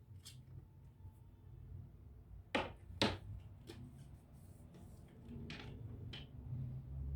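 A few light clicks and knocks of hard parts being handled during laptop repair work, two sharper ones about two and a half and three seconds in, over a low steady hum.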